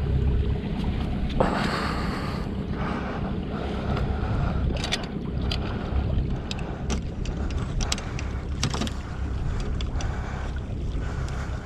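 Sailboat's engine running steadily under wind noise on the microphone, with a short rush of noise about a second and a half in and scattered sharp clicks and knocks later on.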